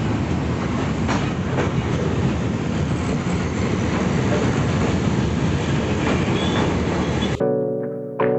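Passenger train running on the track: a steady rumble with a few faint clacks of the wheels over rail joints. About a second before the end it cuts abruptly to instrumental music.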